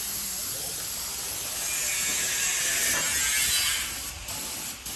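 Steady hissing spray that breaks off briefly twice near the end.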